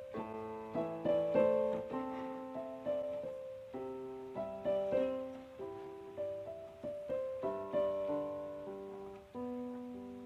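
Background music: a slow, gentle solo piano melody, single notes and soft chords struck a few times a second and left to ring.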